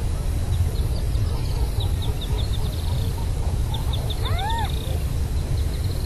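Bird calls over a strong, steady low rumble: quick runs of short, high chips, and about four seconds in a single rising-and-falling call with a rich, buzzy tone.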